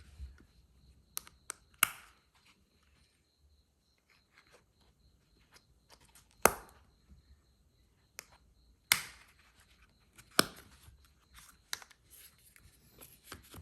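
Scattered sharp clicks and taps from Zippo lighters and leather lighter pouches being handled, about six louder ones with quieter ticks between and a short ring after some.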